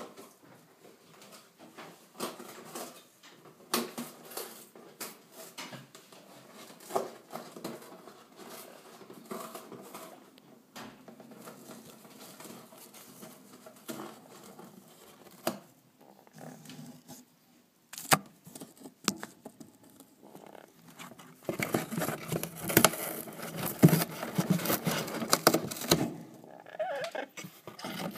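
A parrot chewing and tearing at a box with its beak: scattered small crackles and clicks, turning about three quarters of the way in into a louder, dense stretch of tearing and crunching.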